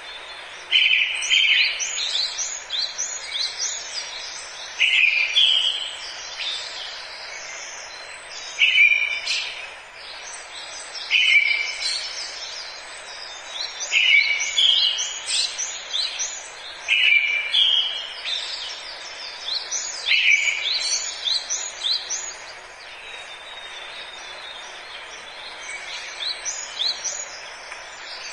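A songbird singing the same short phrase over and over, a strong opening note followed by a quick run of higher notes, a phrase every few seconds; the song grows fainter after about three quarters of the way through. Under it, a steady forest background hiss.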